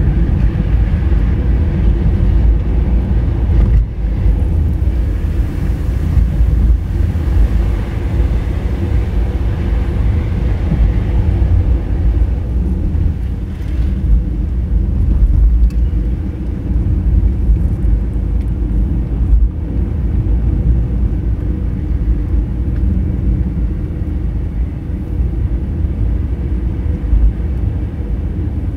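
Honda Fit being driven, a steady low rumble of engine and road noise with a few light knocks from the road surface.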